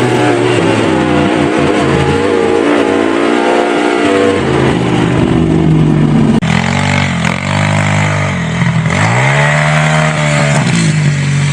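Dirt bike engine running, then revved up and down several times in the second half, its pitch rising and falling with each blip of the throttle.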